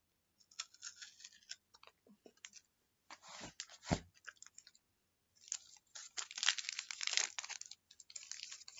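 Crunching and chewing of a Coffee Crisp wafer chocolate bar close to the microphone: scattered crunches, a sharper crack about four seconds in, then a spell of steady crunchy chewing.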